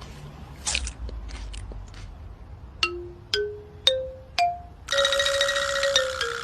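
Four struck chime-like notes climbing in pitch about half a second apart, each ringing briefly. Then a louder held note lasts over a second and dips slightly in pitch at its end.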